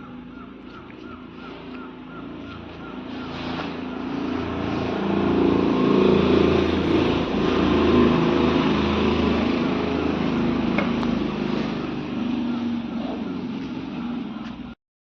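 A vehicle or machine engine running. It grows louder to a peak about six to eight seconds in, eases off, and cuts off suddenly near the end.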